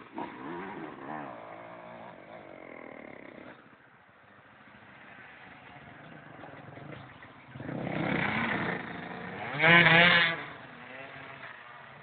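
Enduro motorcycle engine revving, fading out over the first few seconds. About eight seconds in it builds again to a loud, warbling rev, the loudest part, before dying away.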